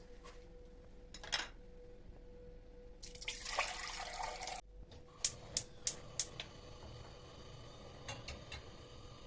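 Kitchen tap water running for about a second and a half and cutting off abruptly. It is followed by a quick run of light clicks and knocks, then a few softer ones near the end.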